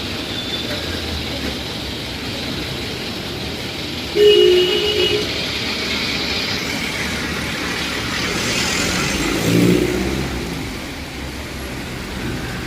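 Road traffic: a steady noise of passing vehicles, with a short two-note horn honk about four seconds in and a vehicle engine swelling past near ten seconds.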